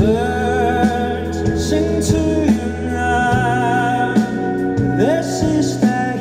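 Rock band playing live, with a lead voice singing long, wavering held notes over sustained bass and regular drum and cymbal hits.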